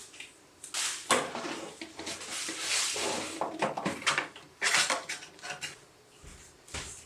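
Things being handled on a tabletop: a run of rustling and light clattering with a few sharp knocks, starting about a second in and dying away near the end.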